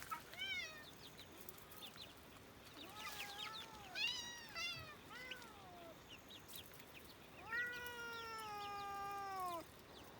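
Domestic cats meowing to be let out: a short meow near the start, a run of about four meows a few seconds in, then one long, drawn-out meow near the end.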